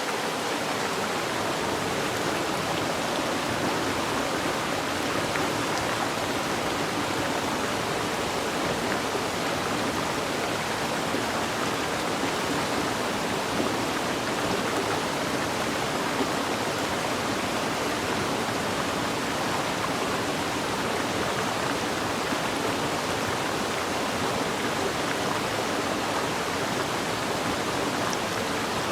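Mountain stream rushing steadily over rocks, an even hiss-like wash of water.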